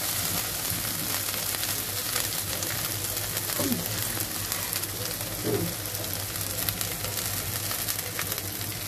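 Spice paste, sliced onions and green chillies sizzling and crackling in hot mustard oil in a steel pan as a steel spatula stirs them: the masala being fried until its raw smell cooks off.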